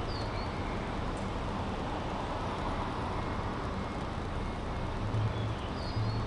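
City street ambience with steady road traffic noise from passing cars. A low engine rumble swells near the end, and a few short high chirps sound once near the start and again near the end.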